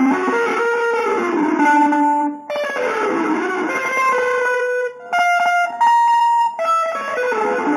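Guitar, most likely electric, playing an improvised single-note line with sliding pitches. The line breaks off briefly twice, then settles on held notes a little after five seconds in.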